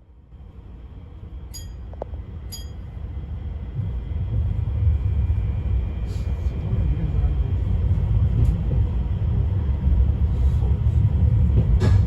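Izu Kyuko 2100 series electric train heard from inside the car, pulling away and picking up speed: the low running rumble of wheels and motors grows steadily louder over the first few seconds, then holds. Two short high ringing clicks sound about a second apart just after it starts.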